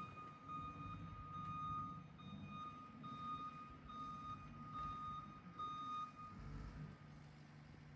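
Power-raking machine's engine running, with its reversing alarm sounding a high beep a little more than once a second. The beeping stops about six seconds in, while the engine runs on.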